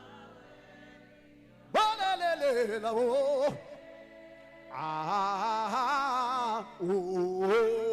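Gospel worship singing: a lead voice in long, wavering wordless phrases over held chords, with a fuller passage of several voices about five seconds in.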